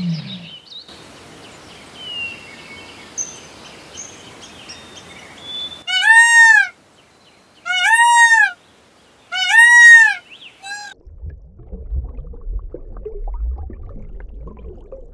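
Peacock (white Indian peafowl) calling: four loud calls, each rising and then falling in pitch and under a second long, the last one short, between about 6 and 11 seconds in. Before them, faint high chirps over a soft hiss; after them, a low rumbling noise.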